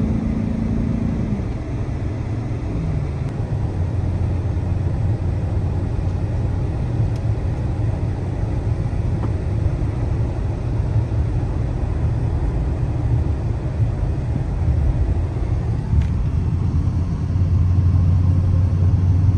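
Dodge Charger Hellcat's supercharged 6.2-litre V8 running while driving, with its stock mid-mufflers still fitted: a steady low rumble over road noise. The engine note falls twice in the first few seconds, and the rumble grows louder near the end.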